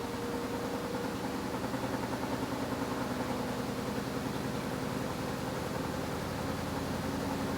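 AQUA washing machine running, its direct-drive inverter motor humming steadily with a fast flutter underneath. A higher tone fades out in the first second or two, and a lower tone steps up slightly in pitch near the end.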